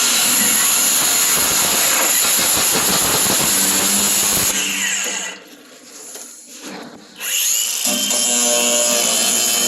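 Power tool cutting through the metal truck bed, running steadily at full speed. About five seconds in it winds down and is nearly quiet for about two seconds, then spins back up and cuts again.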